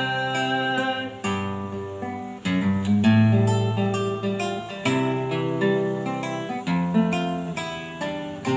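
Acoustic guitar playing an instrumental passage between sung verses, strummed chords changing about every one to two seconds.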